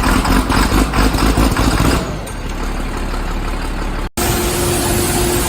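A large engine running just after starting, loud for the first two seconds and then settling to a lower, steadier run; an abrupt cut about four seconds in gives way to a steady engine hum.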